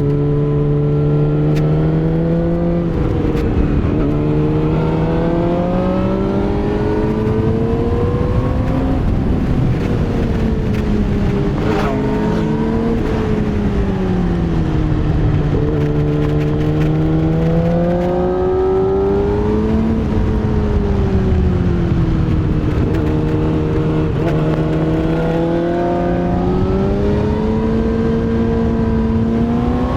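Yamaha YZF-R6 (RJ27) inline-four engine under way, its revs climbing and dropping again several times: accelerating, then backing off or shifting.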